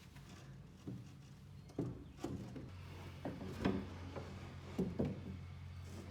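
Irregular wooden knocks and clunks from wooden furniture parts being handled, about seven in all. A low steady hum comes in about three seconds in.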